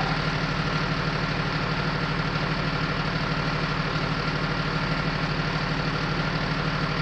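Emergency vehicle's engine idling with a steady, even throb, a thin steady whine above it.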